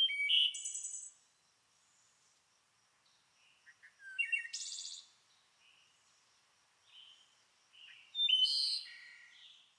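Songbirds chirping and calling in three short bouts: one at the start, one just before the middle, and a longer one near the end, with quiet gaps between. The calls are high, quick notes and brief trills.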